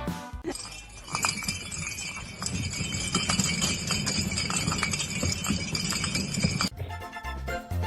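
Jingling and rattling with irregular clicks for about six seconds, then background music comes in near the end.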